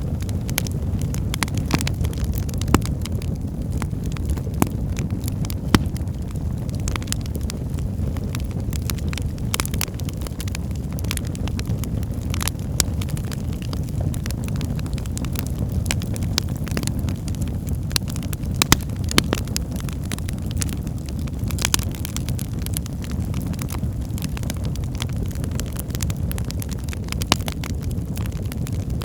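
Fire burning in a fireplace: a steady low rumble of the flames with frequent sharp crackles and occasional louder pops at irregular moments.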